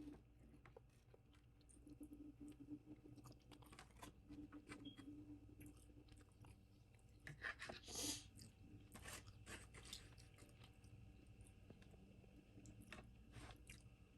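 Faint, close-up chewing and crunching of food in the mouth: irregular small wet clicks and crackles, with a louder crunch about eight seconds in.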